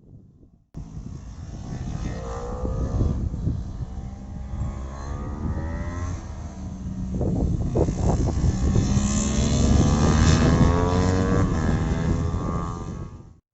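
Several racing motorcycles lapping a kart track, engines revving up and down as they pass, with overlapping rising and falling pitch. The sound is loudest a little after the middle and cuts off abruptly at the end.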